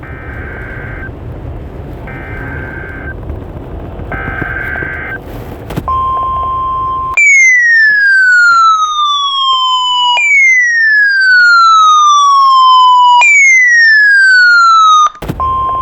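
NOAA Weather Radio alert: three short bursts of the SAME digital header warble over radio hiss, then the steady 1050 Hz warning alarm tone. About seven seconds in, the tone gives way to three loud falling siren-like sweeps, each about three seconds long, and the steady tone comes back near the end.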